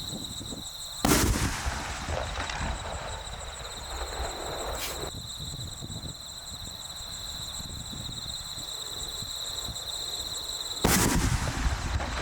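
Aerial fireworks shells bursting: two loud bangs about ten seconds apart, the first trailing off in a few seconds of crackle and rumble, with one faint pop in between.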